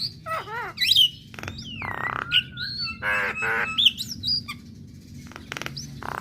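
Female Javan myna singing a varied, chattering song: harsh rasping squawks mixed with whistled up-and-down glides and quick runs of short notes.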